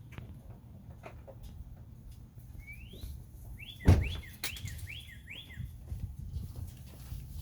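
Engine idling through a new muffler, a steady low rumble. About four seconds in there is a single sharp thump, with a quick run of five rising chirps around it.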